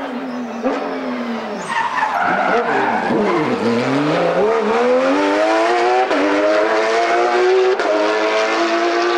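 Rally car engine as the car brakes into a corner, the revs falling in steps as it downshifts, with a hiss of tyre noise; it then accelerates hard away, the revs climbing and dropping at two upshifts.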